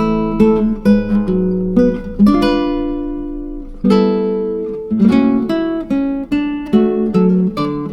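Background music of acoustic guitar, plucked notes and strummed chords that ring and decay, with a long held chord near the middle.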